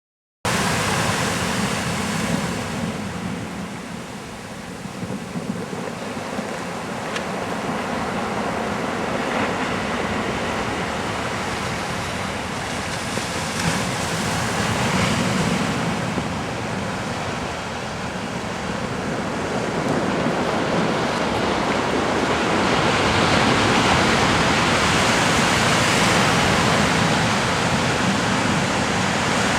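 Sea waves washing on the shore, a steady hiss that swells and eases in slow surges and is loudest in the last few seconds.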